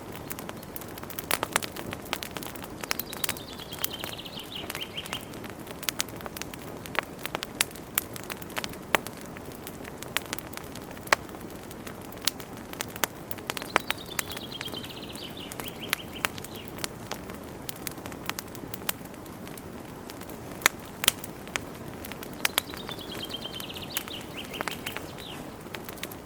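Wood fire crackling, with sharp pops over a steady low rush of burning. A bird sings a short falling phrase of chirps three times, about ten seconds apart.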